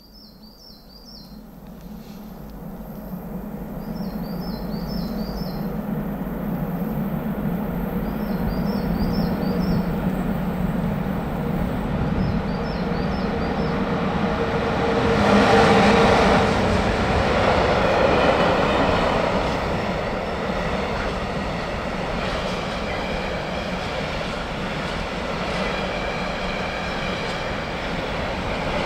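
Train approaching and running past on the rails, building from faint to loud over the first few seconds, loudest about fifteen seconds in, then rumbling on steadily.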